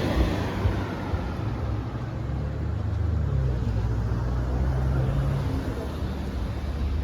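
Car engine running at low revs with a steady low rumble, over street noise; a louder engine sound fades away at the very start.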